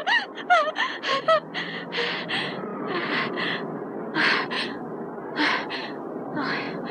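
A person breathing hard in frightened gasps, in quick paired breaths about once a second, with a few short whimpers in the first second or so.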